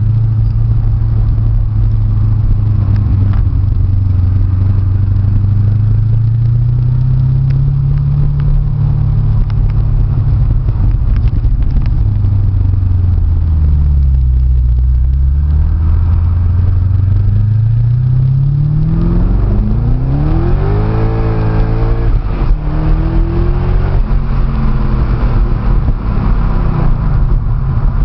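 Twin-turbo 2005 Chevrolet Corvette C6's V8 engine heard from inside the cabin while driving. It holds a steady pitch, eases down, then climbs hard under acceleration past the middle, dips briefly and climbs again before settling back.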